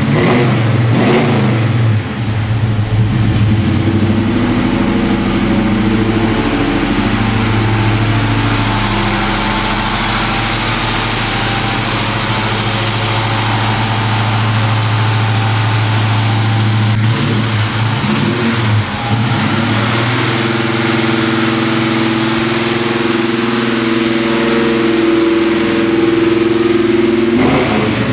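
1970 Chevelle SS V8 running through a Flowmaster exhaust system. It idles steadily, with short throttle revs about a second in, around two-thirds of the way through, and near the end.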